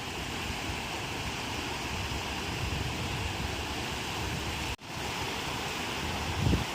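Ocean surf: waves breaking and washing in a steady roar of noise. The sound cuts out for an instant a little under five seconds in, and a short low thump comes near the end.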